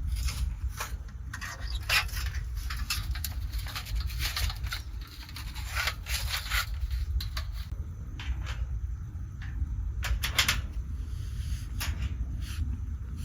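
Handling sounds: a run of irregular clicks, rubs and light knocks, thickest around the middle and a quick cluster near the two-thirds mark, over a steady low rumble.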